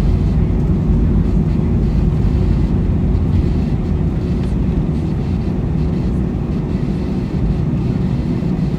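Airbus A321 cabin noise: a steady, loud low rumble of the jet engines and airflow.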